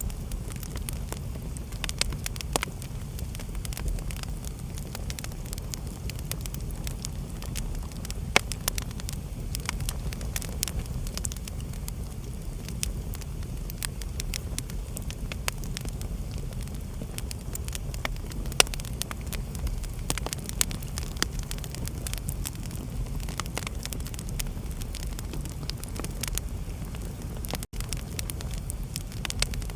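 Wood fire crackling in a fireplace: irregular sharp pops and clicks, a few of them louder, over a steady low rumble of the flames.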